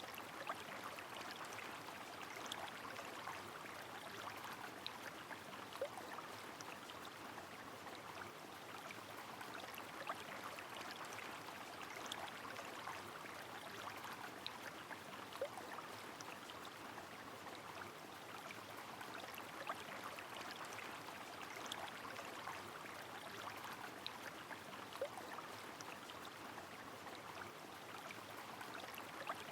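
Rain falling on a flowing river, a steady faint rush of water with scattered single drops ticking now and then.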